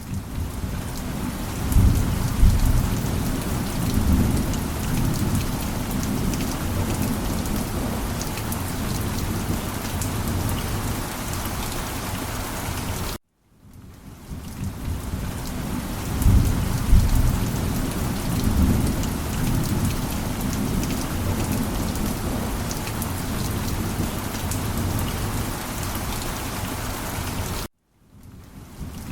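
Steady rain with low rolling thunder, a rumble swelling about two seconds in and again about halfway through. The sound cuts out abruptly for a split second about thirteen seconds in and again near the end, where a looped recording restarts.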